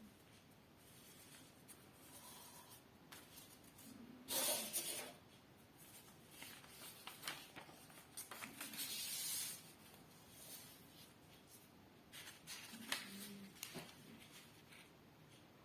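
A sheet of paper being handled, folded and creased by hand: intermittent rustles and crinkles. There is a louder swipe about four seconds in and a longer rustle around the middle.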